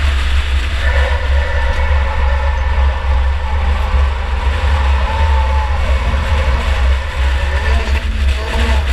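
2004 Chevy Impala demolition derby car driving in a race, heard from inside the car: its engine runs steadily under a heavy low rumble of road and chassis noise.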